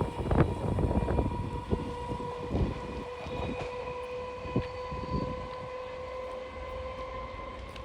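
An Indian Railways train running past: the wheels knock over rail joints, more often in the first few seconds, over a rolling rumble. A steady pitched hum runs under it and slowly fades as the train moves away.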